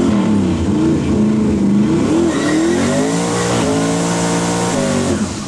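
A Nelson Racing Engines 372 twin-turbo engine in a 1971 Camaro, running hard under throttle. Its note climbs and falls several times and holds steady in stretches, then drops sharply near the end.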